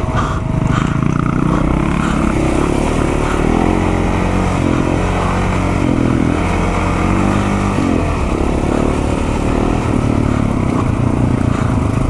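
Onboard sound of a KTM 690's single-cylinder engine running along a dirt trail, its revs rising and falling with the throttle, over a steady rumble of wind and riding noise.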